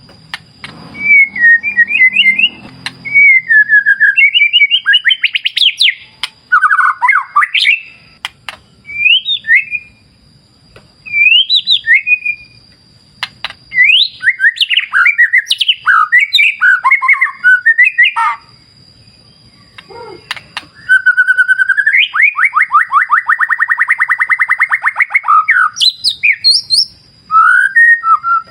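White-rumped shama singing: loud, varied whistled phrases with quick pitch glides, broken by short pauses, and a long rapid trill from about three quarters of the way through. A faint steady high tone runs underneath.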